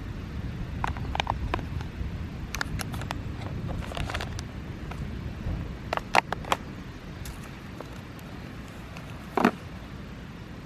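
Steady low rumble of wind and road noise while riding a bicycle, with scattered sharp clicks and rattles and one brief squeak near the end.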